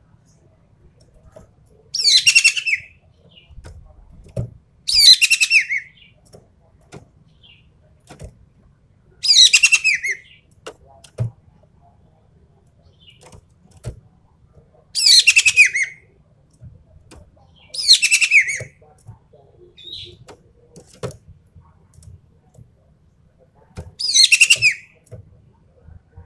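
An ekek keling bird giving its loud, harsh 'tembakan' calls: six short bursts, each under a second, spaced a few seconds apart. Faint clicks sound in between.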